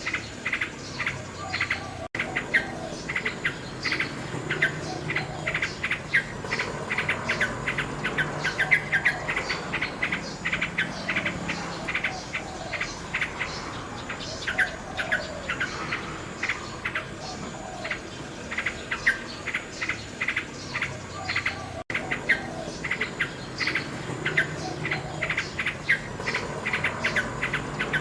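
Nightingale singing: rapid runs of repeated notes and trills, phrase after phrase, over a steady high background tone. The sound cuts out for an instant twice.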